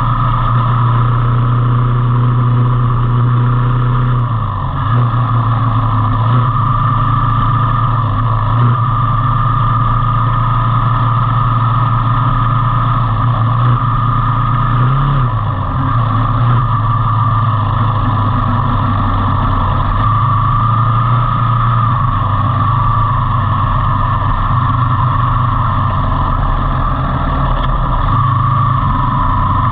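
Motorcycle engine running steadily at a constant speed during a ride, with a low hum and a few slight dips and rises in pitch.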